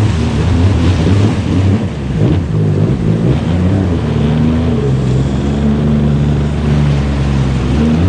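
Jet ski engine running at low speed through rapids, its note wavering over the first few seconds, then holding steady.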